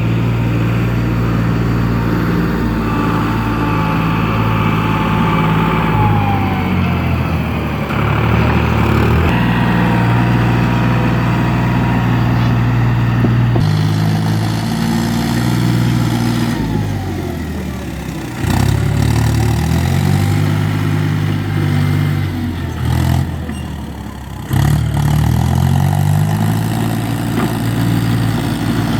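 Diesel tractor engine running under working load, its engine speed repeatedly rising and falling, with two brief drops in loudness late on.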